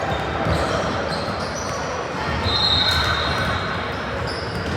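Indoor court game sounds: a ball bouncing and shoes squeaking on the floor, with voices echoing in the hall.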